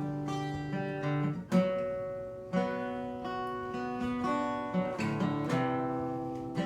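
Acoustic guitar strumming chords on its own, each strum left to ring for a second or so.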